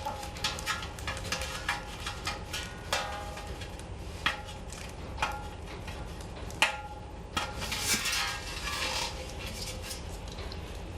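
Metal fire-pit parts clinking and knocking together as they are handled, several knocks ringing briefly, with a stretch of rustling a little past the middle.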